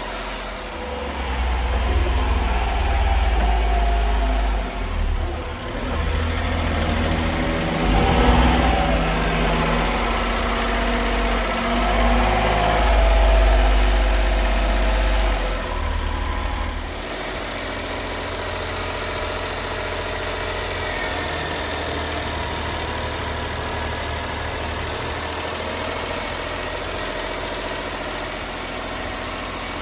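Honda Acty mini truck's small three-cylinder engine running, louder and uneven for the first half with a few swells in revs, then settling to a steady idle about seventeen seconds in.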